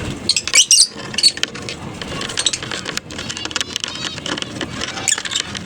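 A colony of lovebirds chattering with many sharp, high-pitched chirps and squeaks, loudest in a quick cluster in the first second and again near the end.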